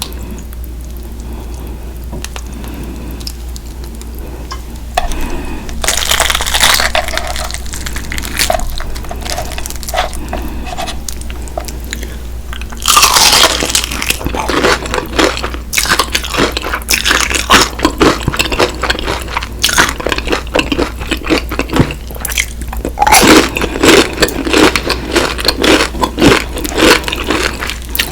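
Crispy fried chicken being bitten and chewed close to the microphone: crackling crunches that begin about five seconds in and get louder and denser about halfway through.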